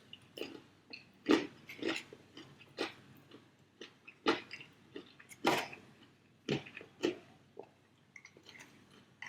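A person chewing Popeyes fried chicken strips: irregular bites and chews, with a few louder crunches spread a second or so apart.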